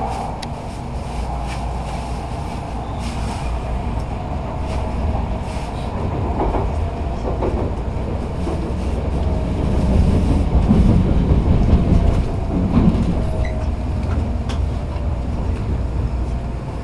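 Running noise heard inside an N700-series Shinkansen passenger car: a steady low rumble with a faint tone that slowly falls in pitch as the train slows. The rumble grows louder, with a few knocks, about ten to thirteen seconds in.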